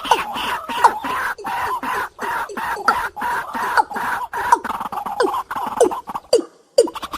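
Night bird calling: a short note sliding downward, repeated about twice a second, over a steady higher-pitched chorus, with a brief dropout near the end.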